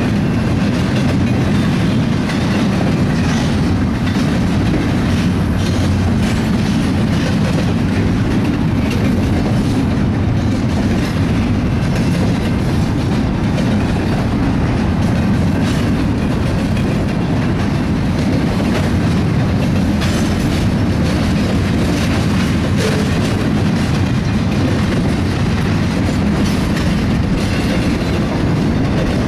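BNSF intermodal stack train's container well cars and trailer flatcars rolling steadily past close by: a continuous rumble of steel wheels on rail, with scattered clicks.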